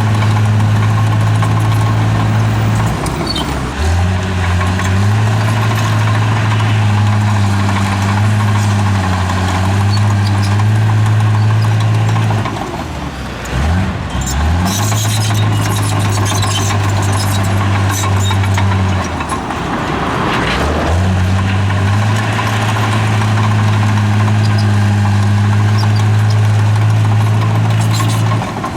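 Bulldozer's diesel engine running steadily, its pitch briefly sagging and recovering about four times. A few sharp clanks are heard around the middle and near the end.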